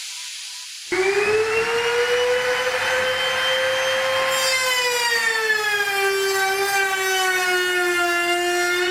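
Wood router mounted in a router table switching on about a second in and running with a high, steady whine. After the middle its pitch drops a little as the bit takes load cutting through wood.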